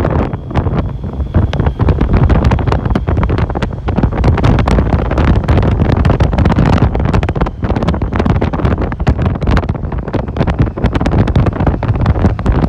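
Wind buffeting the microphone of a riding motorcycle, a loud gusty rumble with a faint high whine in the first few seconds.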